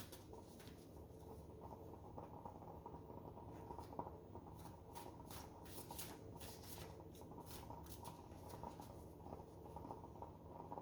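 Faint shuffling and handling of a deck of oracle cards: soft flicks and slides of card stock that come thickest about halfway through.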